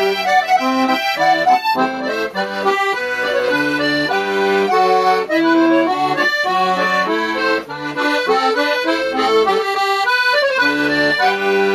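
Scandalli accordion playing a tune, a quick-moving melody over sustained chords, settling near the end on a held chord.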